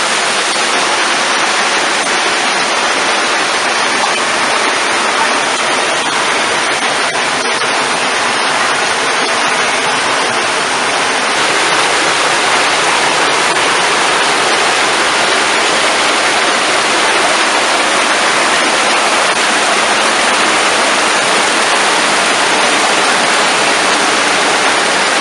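Rushing mountain water close by, a loud, steady rush that doesn't let up.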